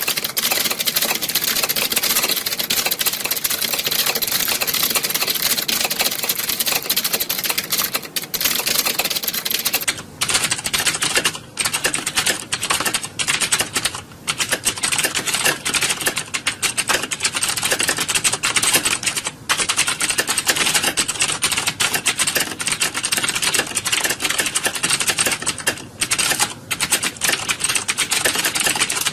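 Many computer keyboards being typed on at once, a dense, continuous clatter of keystrokes, with a few brief lulls.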